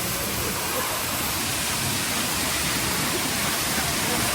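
Steady rushing of falling, splashing water.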